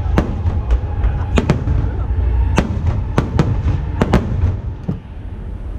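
Aerial fireworks shells bursting: a rapid series of sharp bangs over a continuous low rumble, thinning out near the end.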